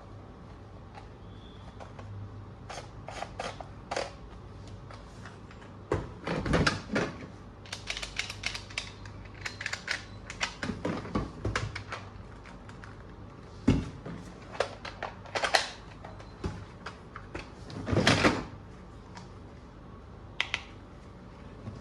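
Hard plastic toy gun parts being handled: irregular clicking and clattering, with several louder bursts of knocks and rattles.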